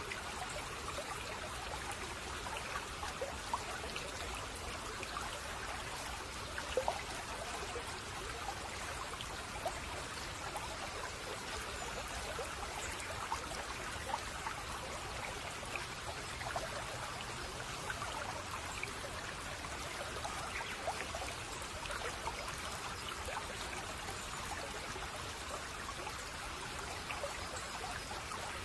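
Shallow stream babbling over stones: a steady rush of water flecked with small trickles and splashes.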